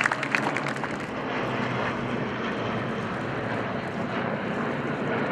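Piston-engined WWII fighter aircraft flying past, a steady propeller-engine drone.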